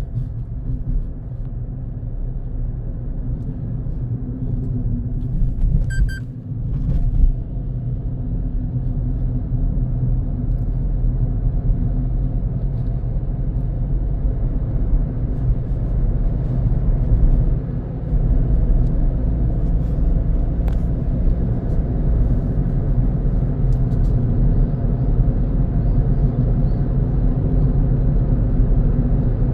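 Car driving along a road: a steady low rumble of engine and tyre noise, with a brief knock about seven seconds in.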